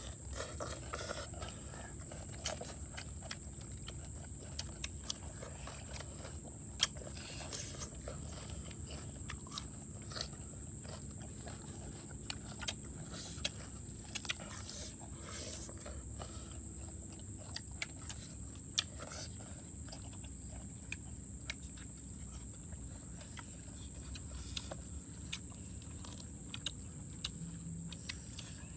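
People eating by hand, biting and chewing raw cucumber and lettuce: irregular crisp crunches and mouth clicks over a steady low rumble and a constant thin high-pitched tone.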